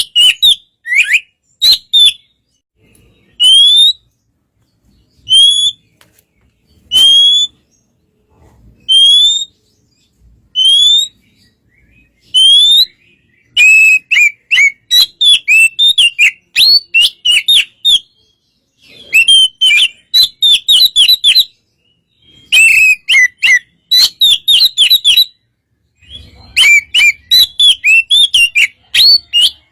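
Oriental magpie-robin (kacer) singing. It gives a loud rising whistle repeated about every two seconds, then from about halfway through switches to fast runs of varied whistled and chirping notes.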